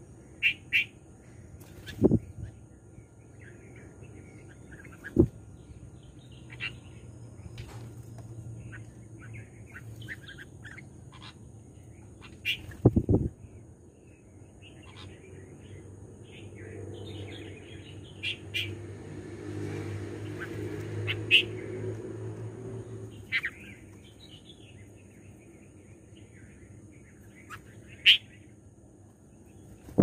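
Birds chirping in short, scattered calls, with several sharp knocks, the loudest about two seconds and about thirteen seconds in. A low rumble swells and fades in the middle.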